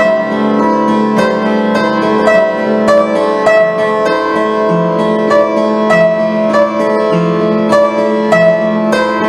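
Instrumental piano music: a steady run of struck notes over held bass notes.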